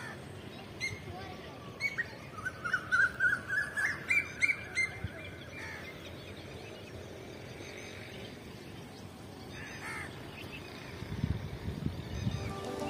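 A bird calling: a few short chirps, then a run of short repeated notes that climb in pitch for a couple of seconds before stopping. After that only faint outdoor background remains, with a few low rumbles near the end.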